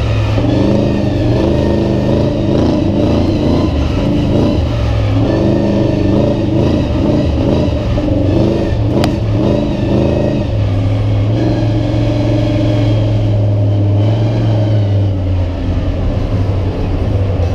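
Monster truck engine running loud and revving up and down, heard from on board during a ride, settling into a steadier deep drone for a few seconds past the middle.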